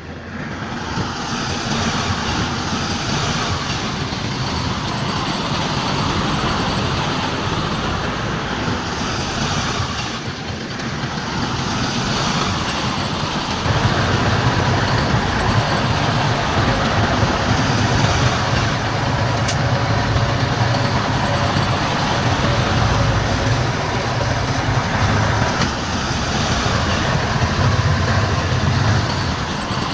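Diesel engines of heavy earthmoving machinery running steadily, with a low rumble that grows louder about halfway through.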